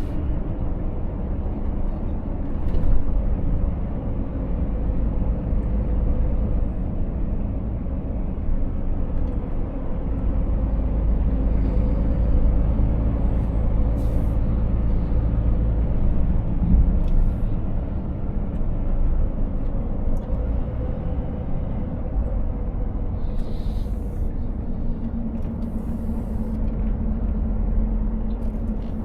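Scania S500 truck's 13-litre inline-six diesel running steadily under way, with a low engine drone and road rumble. A few short hisses cut in about halfway through and again near the end.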